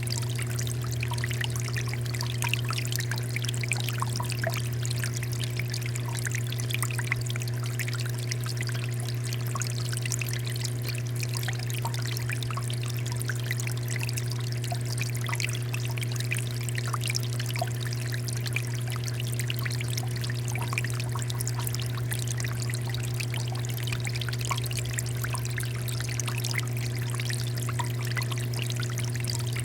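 Water fountain flowing and splashing steadily, with a steady low hum running beneath the water.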